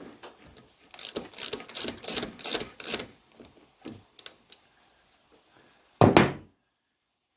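Metal hand tools clicking and clattering in quick runs for a couple of seconds, then a single loud clunk about six seconds in.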